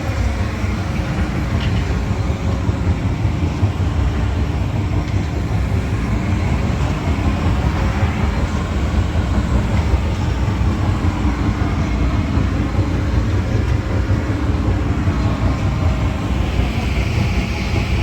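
PACCAR PX-9 8.9-litre inline-six diesel of a Peterbilt 348 truck running, a steady low rumble.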